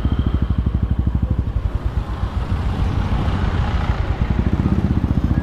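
Motorcycle engine running with a rapid, even firing beat. Its note rises a little about four seconds in as it picks up revs.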